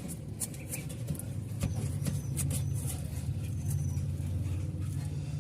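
Steady low rumble, like an engine or traffic, with scattered light clicks and taps.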